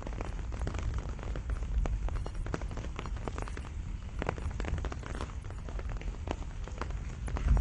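Steady rain falling on a pomegranate tree, with many individual drops striking close by as sharp, irregular ticks over a low, constant rumble.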